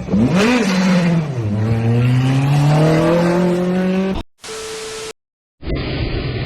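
A vehicle engine revving: its pitch rises and falls quickly, then climbs steadily as it accelerates. It cuts off suddenly after about four seconds, giving way to a brief steady tone, a moment of silence and then a steady rushing noise.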